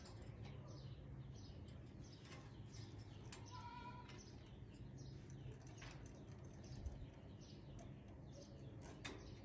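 Faint bird chirping: quick, high, falling chirps repeating throughout, with a short squeaky call about three and a half seconds in and a few sharp clicks.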